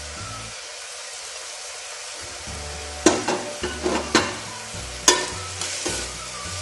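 Onion, tomato and green chilli sizzling steadily in hot coconut oil in a pressure cooker. From about three seconds in, a metal spoon stirring scrapes and knocks against the pot's side several times.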